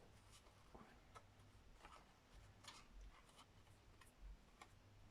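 Near silence, with faint scattered small clicks and taps from craft materials being handled on a desk.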